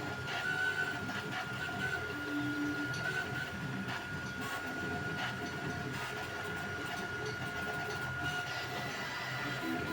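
Creality Ender 3 V3 3D printer at work: its stepper motors give short whines that keep changing pitch as the print head moves, over a steady high tone and a constant mechanical hum.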